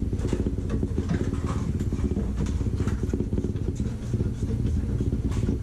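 A steady, rapidly pulsing low drone of a running engine or motor, with a few faint light ticks over it.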